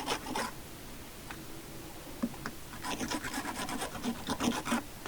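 Half-round wood rasp filing the underside of a squeegee swivel handle: a few scattered scrapes, then from about three seconds in a run of quick, even back-and-forth strokes.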